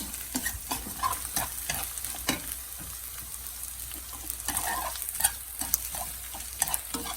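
Egg fried rice being stirred and turned in a hot pan, sizzling, with irregular scrapes and taps of the spatula against the pan as the rice is fried dry.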